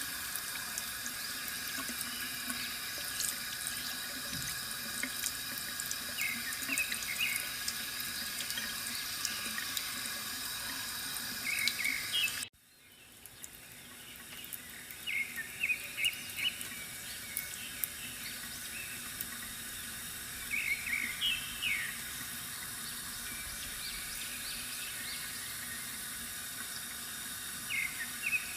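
Water trickling steadily from a bamboo fountain, with short bursts of bird chirping every few seconds. About halfway through, the sound cuts out abruptly and fades back in over a second or two.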